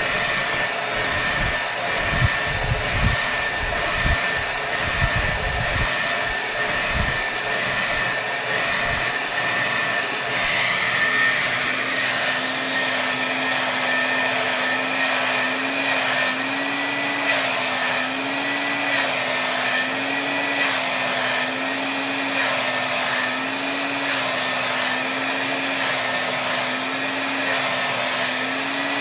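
Hair dryer running at full power: a steady rush of air with a high motor whine. About ten seconds in, a lower hum joins and wavers slowly up and down in pitch about once every second and a half. Low gusty rumbles come in the first several seconds.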